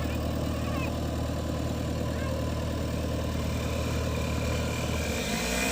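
Heavy diesel engine idling steadily with a low rumble, which drops away about five seconds in.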